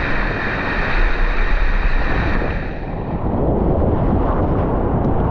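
Loud rushing whitewater of a river rapid, with wind buffeting the microphone. About three seconds in, the hiss turns duller and lower.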